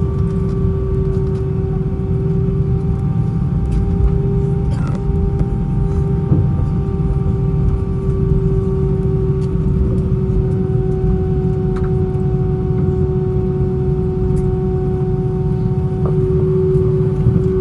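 Steady cabin noise of an Airbus A320 on the ground after landing: a low rumble with a constant droning hum from the engines at idle, and a few faint clicks.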